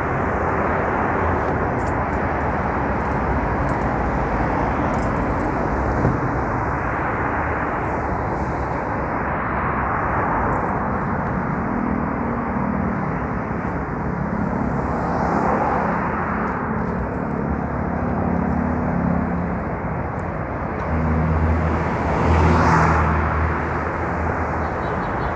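Riding noise from a moving Yamaha Mio Soul scooter: a steady rush of wind and road noise over the hum of its small four-stroke engine, whose pitch shifts with speed. The sound swells louder briefly near the end.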